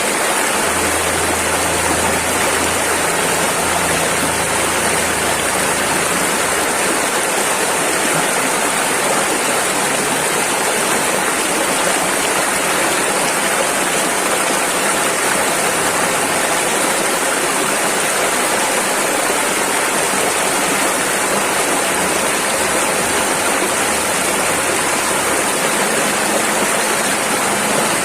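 Rushing river: fast water running over rocks, a steady dense rush with no breaks.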